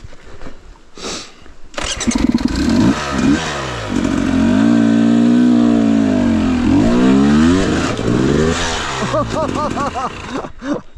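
Dirt bike engine revving hard, its pitch rising and falling over and over as the rider works the bike over a log obstacle. It starts about two seconds in, is loudest in the middle and eases off near the end.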